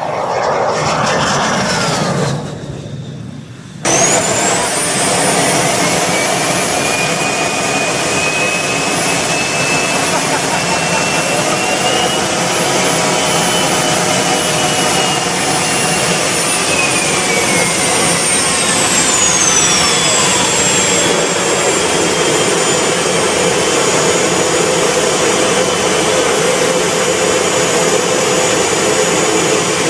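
Jet turbine engine running with a loud rushing roar. It cuts in suddenly about four seconds in, after a short falling whine. A high turbine whine rises in pitch, holds, then falls away about two-thirds of the way through, while the rush carries on.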